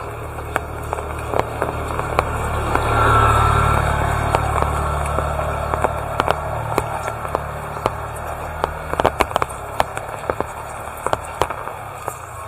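A motor vehicle passes by, its engine rumble swelling about two seconds in and fading away by the second half, over steady rain with sharp drip ticks from drops landing close by.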